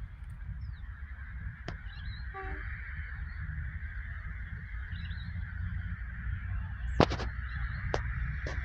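Diesel locomotive approaching at a distance: a steady hum with a low rumble underneath, and a sharp knock about seven seconds in.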